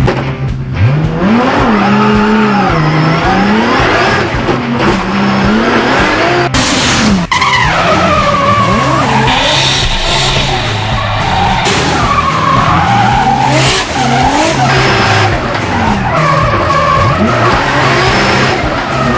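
Toyota 86 drift car with a swapped-in 1000 hp turbocharged 2JZ straight-six, its revs sweeping up and down again and again as it drifts, over continuous tyre squeal.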